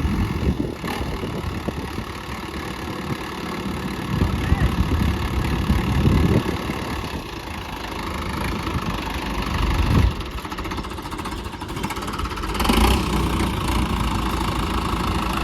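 Tractor diesel engine running hard, its loudness rising in surges a few seconds in and again near the end.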